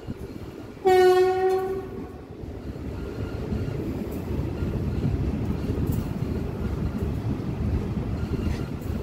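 A train's horn sounds once about a second in, a single steady note lasting about a second. Under and after it runs the steady rumble of the moving train.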